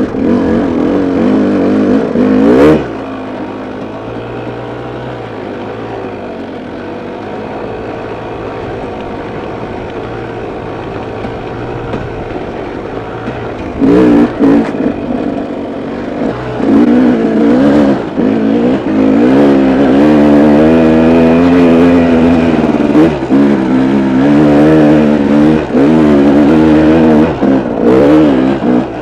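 KTM dirt bike engine being ridden off-road, revving and easing off with the throttle. It drops to a low, steady running for about ten seconds, then picks up again in short blips and longer stretches of revving with a wavering pitch, broken by quick throttle closings.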